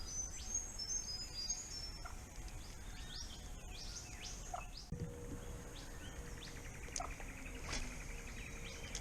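Birds chirping and whistling: many short, high calls, several of them falling in pitch. About halfway a steady low tone comes in and holds.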